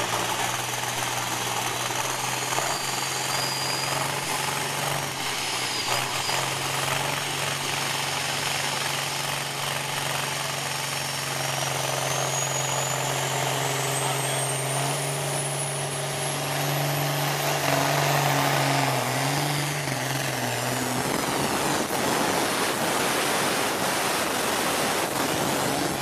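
Competition pulling vehicle's engine running hard and steady under load during a pull. A thin high whistle climbs steadily in pitch through the middle, and the engine note changes about three quarters of the way through.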